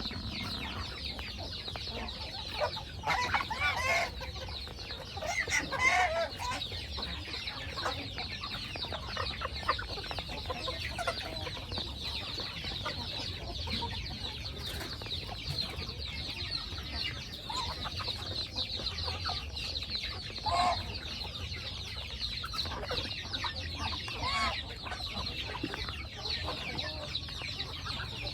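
Chickens clucking, with a few louder calls about three, six and twenty-one seconds in, over a steady high-pitched background chatter.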